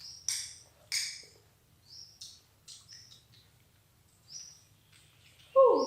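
A baby monkey making short, high chirps and clicking mouth sounds as she eats noodles. A louder falling voice comes near the end.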